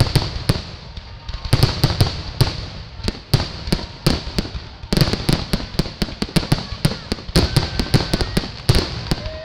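Fireworks finale barrage: aerial shells going off in quick succession, a few bangs at first, then many a second from about halfway through.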